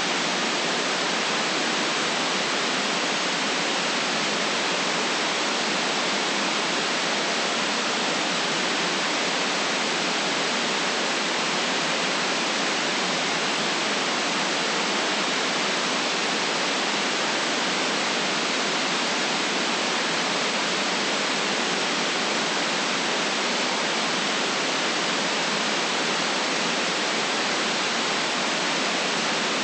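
Steady white-noise hiss for sleep, even and unchanging throughout, with no deep bass and no sharp top.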